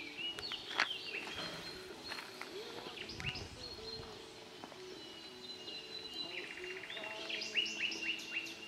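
Songbirds singing and calling: many short chirps and downward-sliding notes, with a fast trill a little past the middle and a thin held whistle through the second half.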